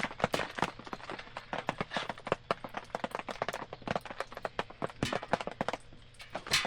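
Wood campfire crackling, with irregular sharp pops and snaps, a few of them louder.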